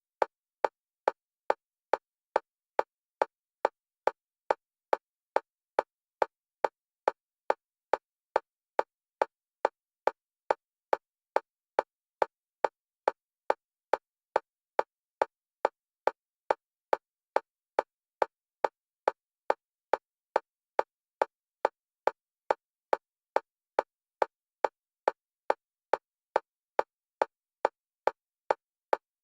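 Single-pitch metronome clicks for EMDR bilateral stimulation, alternating between the left and right stereo channels. They come fast and perfectly even, just under two clicks a second, with silence between them.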